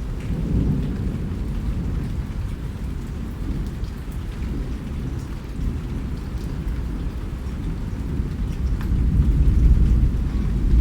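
Rain falling steadily, with a deep low rumble under it that swells louder near the end and faint scattered drop ticks above.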